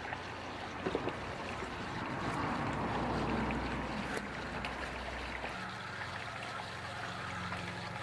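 Water from a running garden hose splashing and trickling into a plastic recycling box, with a few small knocks of handling about one second and four seconds in.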